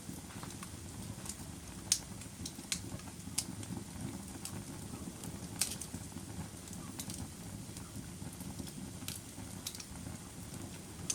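Fire burning in a fireplace: a steady low rustle of flames with irregular sharp crackles and pops, the loudest about two seconds in and again past the middle.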